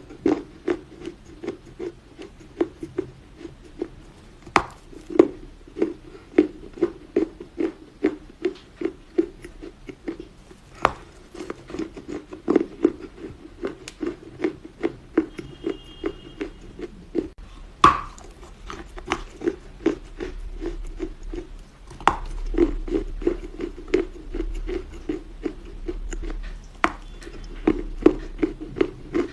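Chunks of dry Chinese loess (clay soil) crunching and crumbling, with many short, sharp crunches coming several a second at an uneven pace.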